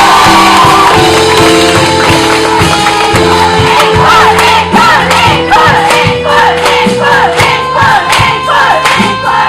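Live musical-theatre song: voices holding long notes over an accompanying band, which settles into a steady beat about four seconds in.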